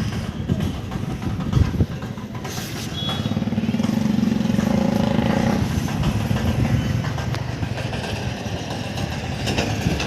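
Wind rumbling on the microphone, with a motor vehicle's engine passing, loudest about four to six seconds in.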